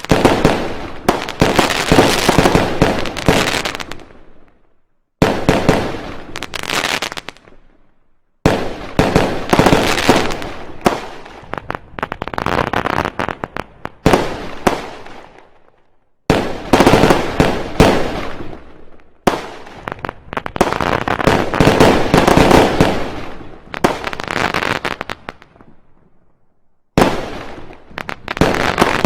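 Fireworks going off in dense volleys of rapid bangs and crackles. The sound comes in several long stretches that each start abruptly and die away, with brief silences between them, about four seconds in, eight seconds in, sixteen seconds in and near the end.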